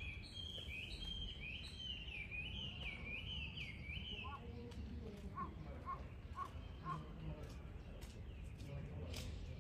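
A bird singing a quick run of warbling, up-and-down notes for the first four seconds, then four short, evenly spaced chirps, over a steady low outdoor rumble.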